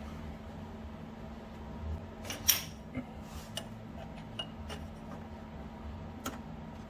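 Small metal parts of a homemade bushing puller (bolt, washers, aluminum flat stock) clinking and tapping as they are handled, with a sharper clink about two and a half seconds in. A steady low hum runs underneath.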